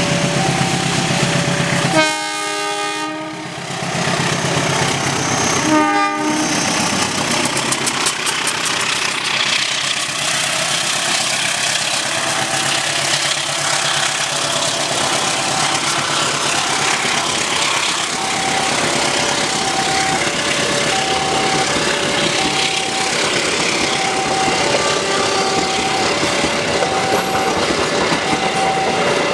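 A KAI CC 206 diesel-electric locomotive sounds its horn about two seconds in for over a second, then gives a short second blast around six seconds, and its passenger coaches roll past with steady wheel-on-rail noise and clickety-clack. Through it all a level-crossing warning bell rings its two alternating tones.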